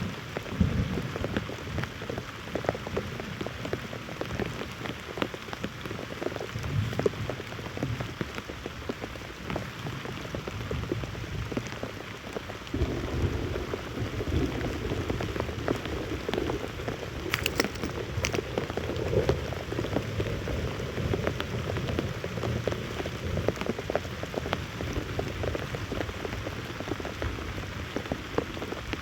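Steady rain falling, with many separate drops striking close by; it gets a little louder about halfway through.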